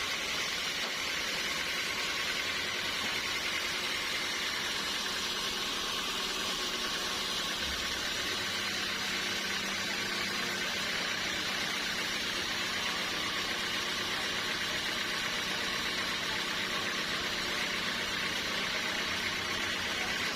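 Sawmill machinery running steadily, with a constant mechanical hum and hiss and no distinct cuts or impacts.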